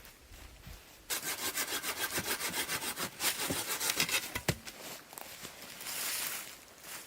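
Hand saw cutting through wood in quick, even back-and-forth strokes. The sawing starts about a second in, pauses, and ends with a longer rasping stroke near the end.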